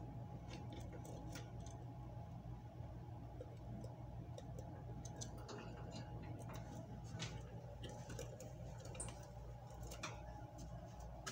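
Lovebirds in a cage: faint scattered clicks and ticks, with a few brief high chirps, over a steady low hum.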